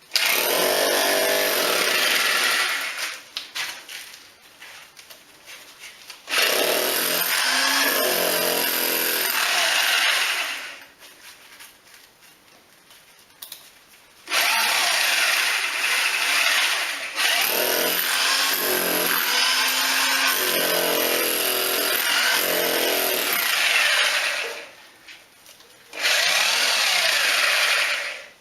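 Electric drill boring through a thick house wall, run in four long bursts with short pauses, its motor pitch wavering under load.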